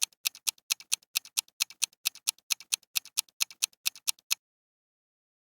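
Countdown-timer ticking sound effect: fast, even clock ticks at about four to five a second, stopping about four seconds in.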